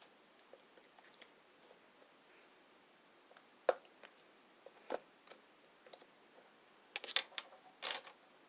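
Slime being pressed and worked by hand, giving scattered small sticky clicks and pops, with a few louder crackly snaps near the end.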